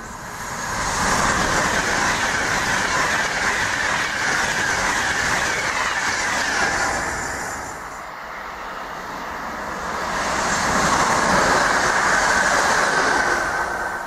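Trains passing through the station at speed: wheel-on-rail noise swells, holds and fades about halfway through, then swells again for a second pass near the end.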